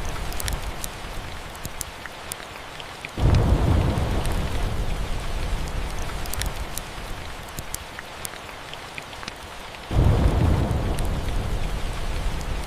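Steady rain with thunder, two low rumbles breaking in suddenly about 3 seconds and 10 seconds in and fading away, over scattered sharp crackles of a wood fire in a fireplace.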